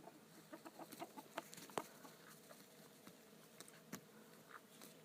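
Faint sounds of 8-week-old German Shepherd puppies at play: a quick run of short clucking grunts and sharp clicks in the first two seconds, then a few scattered clicks.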